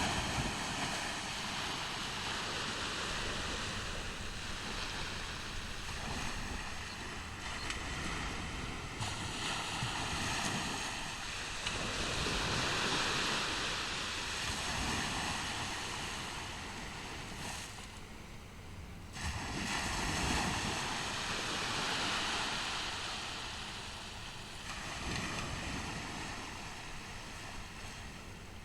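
Ocean surf: waves breaking and washing up the beach as a continuous hiss, swelling into bigger surges near the middle and again about two-thirds through.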